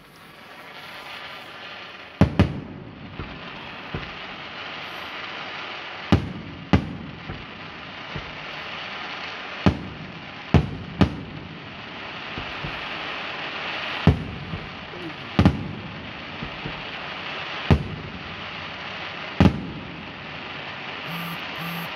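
Fireworks display: aerial shells going off with about a dozen sharp bangs, spaced a second or more apart, over a continuous crackling hiss.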